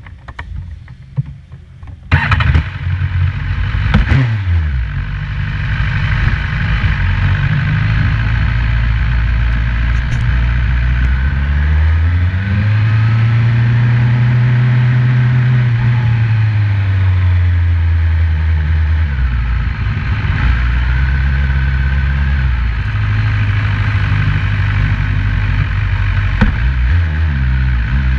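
BMW S1000RR's inline-four engine comes in suddenly about two seconds in, with a quick rev that falls away. It then runs steadily at low revs, its pitch rising slowly and falling back once in the middle.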